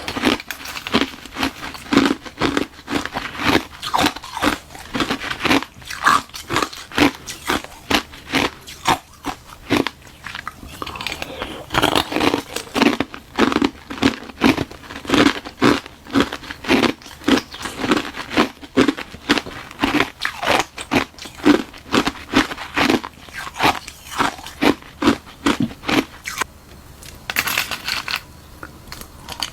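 Close-miked crunching of hard ice being bitten and chewed: a hollow balloon-frozen ice shell packed with milk-tea ice. Sharp crunches come about two to three a second, with a short break near the end.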